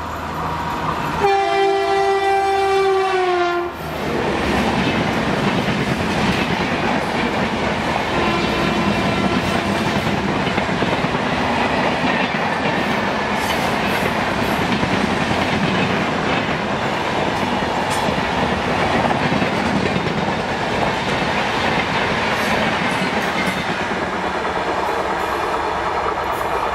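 A WAP-4E electric locomotive blows its horn for about two and a half seconds, the tone dipping in pitch at its end as it passes. An express train of LHB coaches then rushes past at speed, its wheels clattering over the rail joints, with a second, fainter horn note about eight seconds in.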